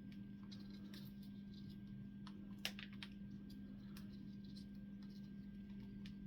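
African grey parrot cracking and nibbling a nut with its beak: scattered small irregular clicks and crunches, with one sharper crack about two and a half seconds in, over a steady low hum.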